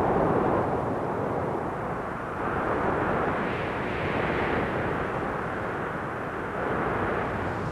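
A steady rushing noise, like wind, swelling and easing several times, with no sharp pops or cracks.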